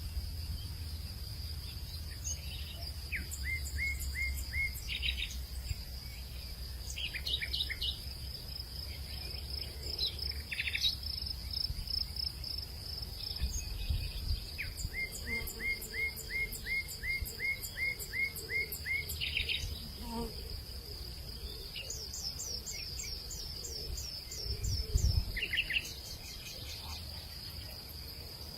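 Hillside evening ambience: a steady high-pitched insect drone of crickets, with birds calling in quick series of short repeated notes, one run of about a dozen notes in the middle and a higher run near the end. A low rumble sits underneath.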